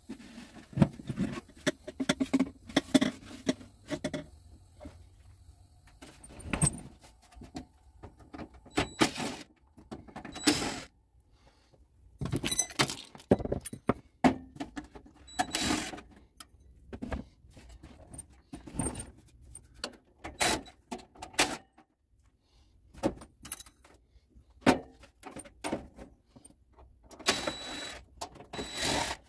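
Hands taking apart a Whirlpool dehumidifier: scattered clicks, rattles and knocks as its plastic housing and parts are handled, irregular and with short pauses between.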